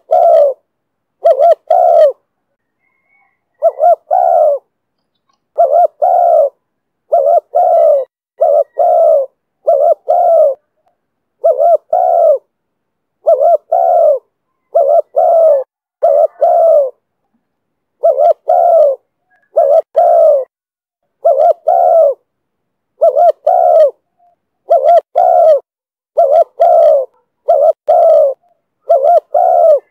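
Spotted dove (cu gáy) cooing in the 'thổ thúc bổi' call style: short, loud coo notes repeated over and over, mostly in quick pairs, with a brief pause about two seconds in.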